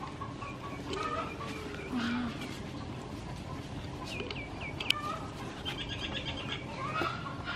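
Small birds chirping in short high calls over a steady outdoor background, with a quick run of chirps about six seconds in. There is a single sharp click just before five seconds in.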